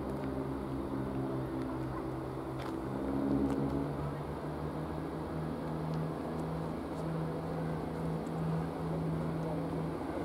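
A train's engine running at the station with a steady low hum and rumble. A higher hum over it swells and then fades out about four seconds in.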